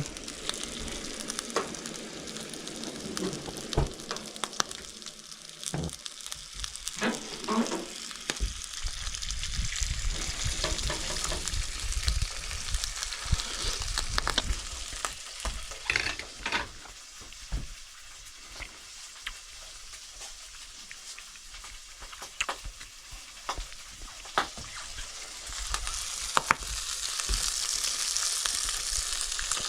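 Salmon frying in a pan: a steady sizzle with scattered pops and crackles.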